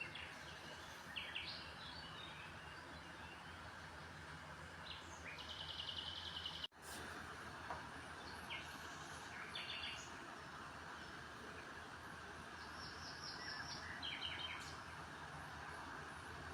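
Small birds chirping in short, scattered calls, with a couple of rapid trilled phrases, over a steady background noise. The sound drops out for an instant about a third of the way in.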